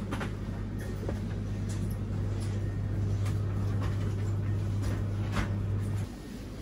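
Steady low hum inside a stationary passenger train carriage. It cuts off suddenly near the end, with scattered light clicks and knocks over it.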